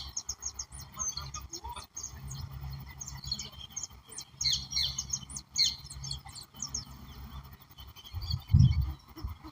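Several birds chirping and calling in quick falling notes, bunched in short flurries, over a steady low rumble. A single low thud comes near the end.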